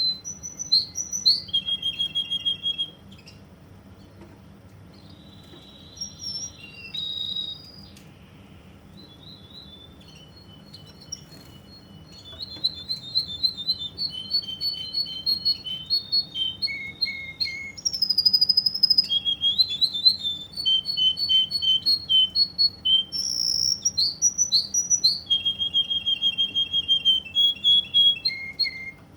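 Russian canary singing in rapid trills and rolls of repeated high notes, changing from one phrase to the next. A short burst of song opens, then a few scattered fragments, then a long unbroken run of trills for the second half.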